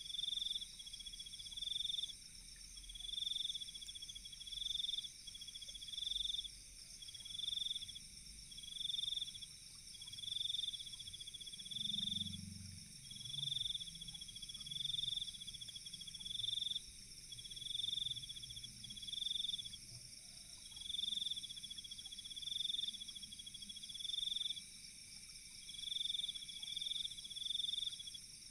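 Night insects calling: a trilling call pulses about once a second, over a steady high-pitched insect chorus.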